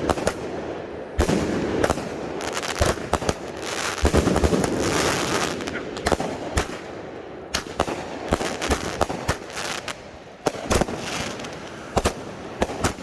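Fireworks cakes firing during a display: irregular sharp bangs and pops of shots and breaks over continuous crackling and hissing.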